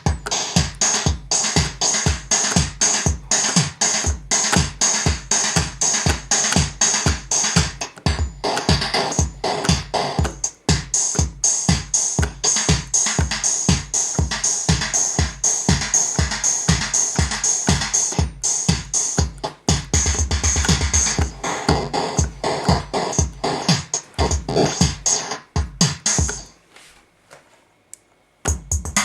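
KORG Kaossilator synthesizer playing an electronic drum-machine and synth loop with a steady beat. About twenty seconds in, a fast low buzzing roll comes in briefly. The loop cuts out a few seconds before the end.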